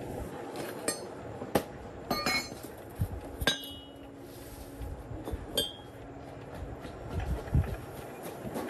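Metal clinks and knocks as tools and steel parts strike one another, about half a dozen separate hits, several ringing briefly.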